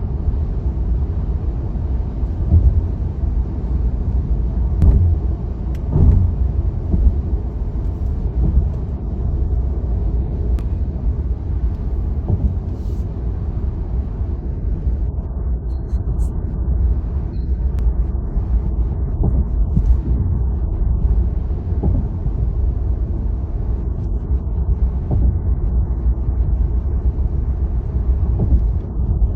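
Steady low road rumble of a Tesla electric car at highway speed: tyre and road noise with no engine note, and a few brief thumps.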